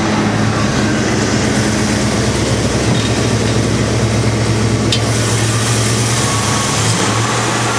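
A 1973 Ford Bronco's Ford 302 V8 idling steadily.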